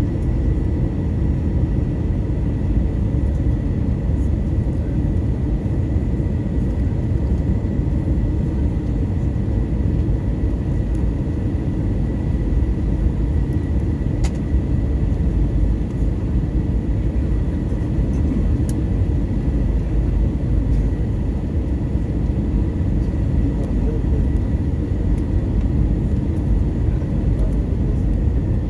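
Airbus A320 cabin noise heard from a window seat: a steady low rumble of engines and airflow with a thin, steady high tone, unchanging throughout.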